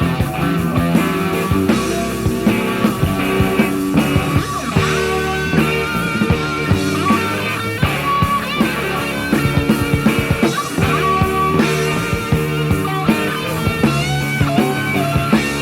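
Hard rock band playing an instrumental passage: an electric guitar lead with bending, wavering notes over bass and steady drums.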